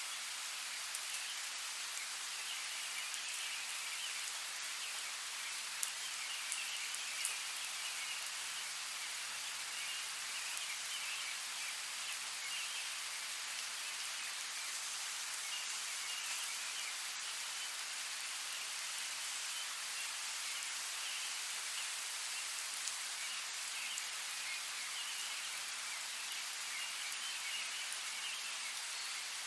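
Steady rain falling, a dense even patter with a few sharper drop ticks now and then.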